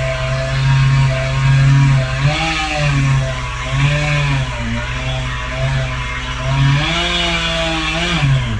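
Chainsaw running under load as it cuts, its engine pitch sagging and recovering repeatedly, then dropping sharply near the end.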